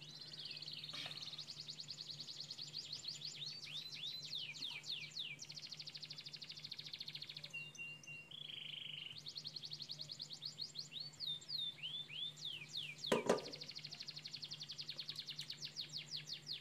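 A small bird singing without a break: fast trills and quick downward-sweeping chirps, over a steady low hum. A single sharp knock sounds about three-quarters of the way through.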